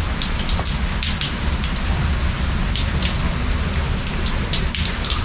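Rain falling steadily, with many individual drops ticking sharply close by over a steady low rumble.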